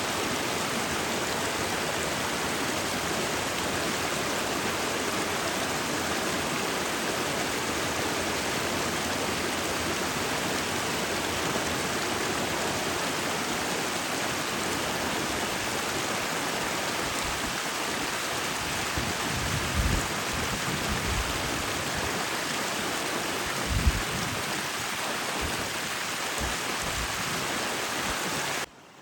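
Steady, even hiss of rushing or falling water, with a couple of low thumps about two-thirds of the way through. It cuts off abruptly near the end.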